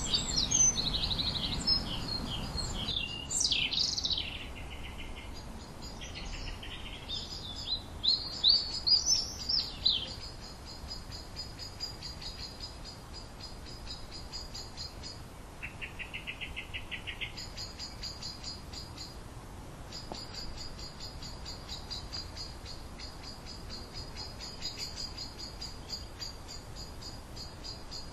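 Songbirds singing short, high, sliding phrases for about the first ten seconds, with a low rushing noise under them that stops abruptly about three seconds in. After that, a steady high-pitched, fast-pulsing insect trill like a cricket's carries on. Near the middle it breaks off briefly while a lower pulsed trill sounds.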